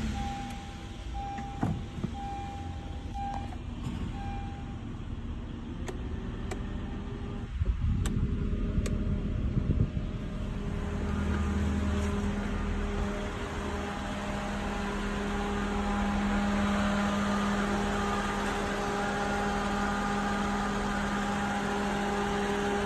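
Honda Accord engine idling just after a start, with an electronic beep from the car repeating at an even pace. A few knocks and clicks come about eight to ten seconds in, and the hum grows louder after that.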